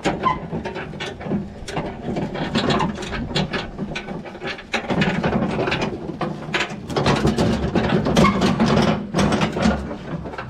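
Dense, irregular mechanical clattering: many rapid clicks and knocks with no steady tone.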